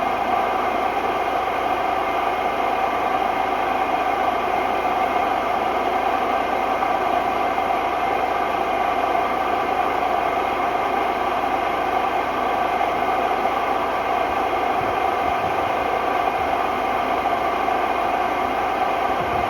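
Hotpoint Ultima WMD960 washing machine on a fast spin: a loud, steady noise with a whine of several steady tones running through it. The noise is the sign of bad drum bearings.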